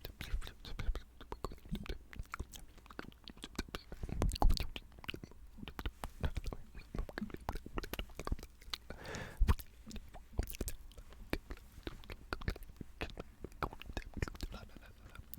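Close-miked ASMR mouth sounds: rapid, irregular wet clicks and smacks, with faint indistinct whispering under them.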